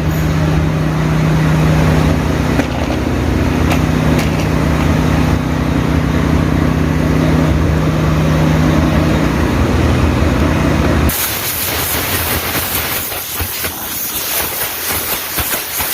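A loud steady machine hum with a low drone, cutting off abruptly about eleven seconds in and giving way to a rough, fluttering hiss.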